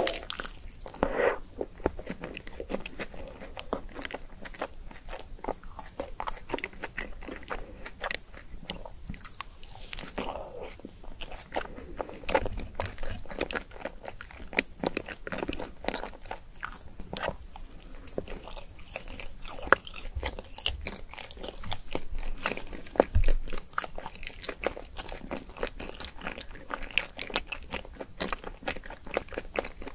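Close-miked crunchy biting and chewing of strawberry crunch-coated sweets, a dense run of crisp crackling crunches.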